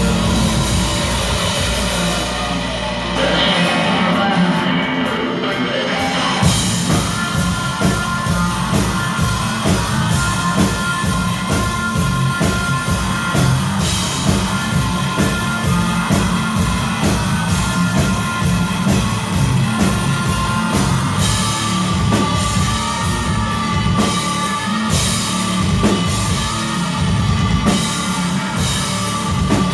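Rock band music with a drum kit. About three seconds in, the bass and drums drop away briefly, and about three seconds later the full band comes back in with a steady drum beat.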